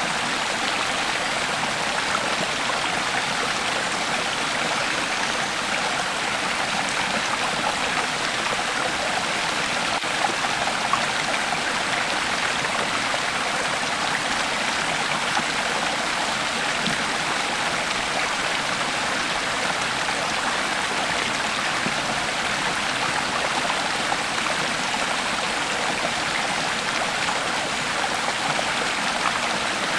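Creek water flowing and burbling over stones, a steady rushing sound with no breaks.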